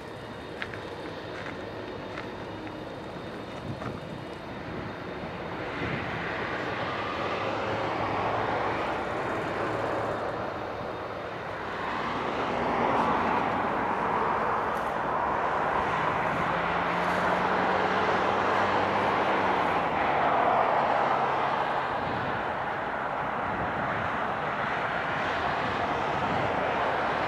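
Jet noise from the twin turbofan engines of an Airbus A300-600ST Beluga. It is a steady rushing roar that grows louder over the first half and then stays loud, with a faint engine tone that rises and then falls near the end.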